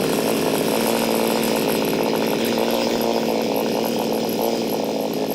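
A small two-stroke chainsaw running steadily with its air filter off, while Sea Foam is injected into the air intake to fog the engine before it is shut down.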